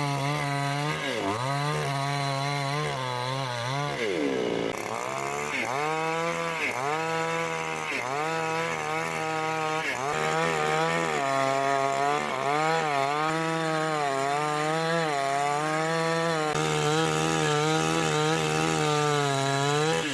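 Chainsaw running under load while cutting wood. The engine's pitch dips and recovers over and over as the chain bites, with one deep drop about four seconds in.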